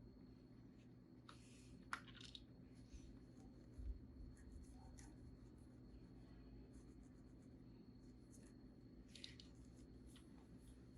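Near silence: faint room tone with a steady low hum, broken by a few soft scratching and clicking sounds, mostly about a second or two in and again near the end.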